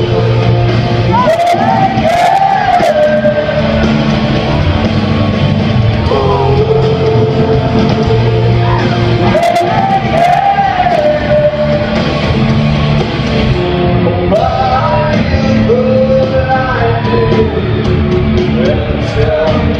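Rock song: a band playing with a lead vocal singing long, held, gliding melodic lines.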